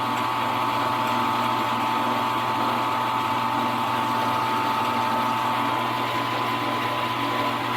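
Small milling machine running steadily with a wiggler spinning in its spindle: an even motor whine with a low hum underneath.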